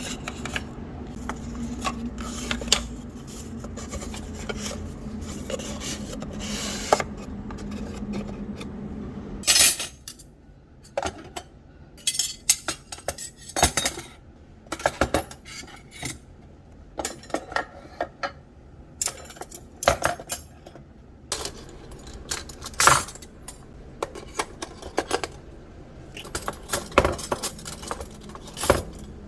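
Cutlery and dishes clinking and clattering as they are handled and put away, with many separate sharp clinks. A steady background noise runs under the first third and stops about ten seconds in.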